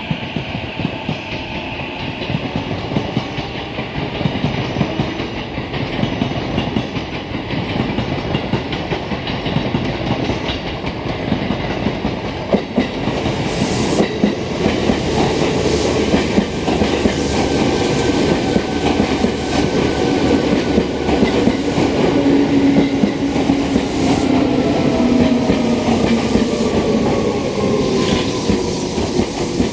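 An electric train running on a nearby track: rumbling wheel noise that grows louder from about halfway, with a rapid run of clicks over rail joints and a falling electric-motor whine, over the steady hum of a train standing at the platform.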